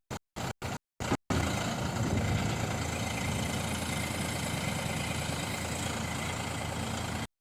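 Heavy diesel engine running steadily. For about the first second it is chopped into short fragments separated by gaps of silence; then it runs on unbroken until it cuts off abruptly near the end.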